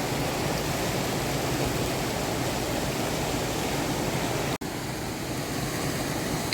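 Steady rushing noise with no distinct tone, broken by a sudden, very short dropout about four and a half seconds in.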